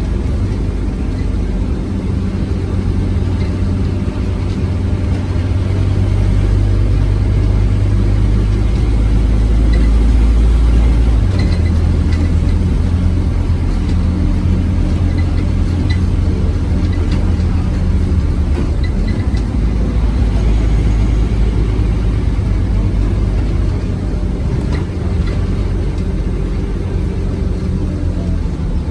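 Scania OmniCity bus engine running under way, heard on board as a deep steady drone. It swells, then its note changes abruptly about eleven seconds in and carries on at the new note.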